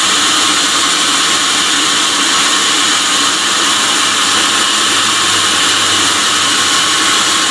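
Sawmill saw running steadily through a large teak log, a loud, even, high-pitched cutting noise.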